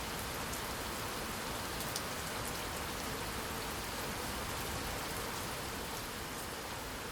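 Steady rainfall: an even hiss of rain with small drop ticks scattered through it.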